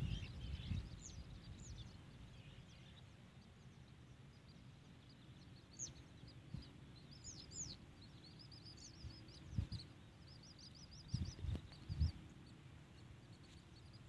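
Small birds chirping in short high calls, with a quick run of chirps in the second half. A few dull low thumps, louder than the birds, come in the second half.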